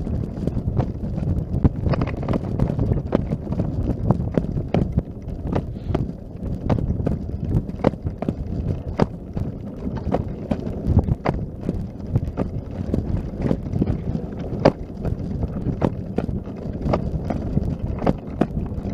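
Footsteps in snow at a steady walking pace, about two steps a second, over a low rumble on the microphone.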